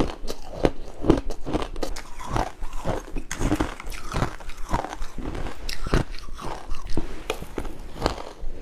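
Close-miked chewing and crunching of pink ice cubes, an irregular run of crisp crunches with several strokes a second.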